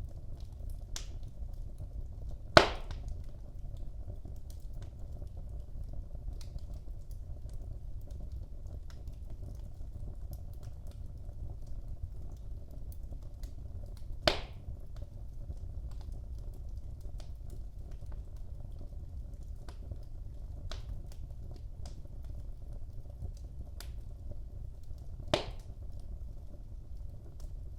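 Wood fire burning in a fireplace: a low steady rumble of the flames with light crackling throughout, and three sharp loud pops, the first and loudest a few seconds in, one near the middle and one near the end.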